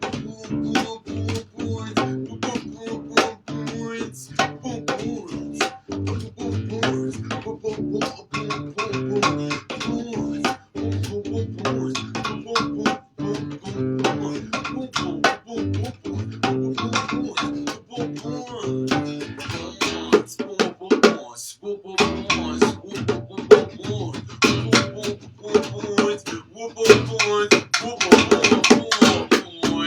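Live band playing an instrumental passage of a song on guitar and bass guitar in a steady rhythm. The bass drops out briefly about two-thirds of the way through, and the playing gets louder and busier near the end.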